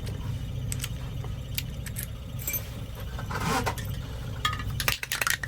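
Metal key clicking and jangling in a Ford 5-pin ignition lock cylinder as the freshly cut duplicate is turned and wiggled; the lock is a little sticky. A steady low hum runs underneath.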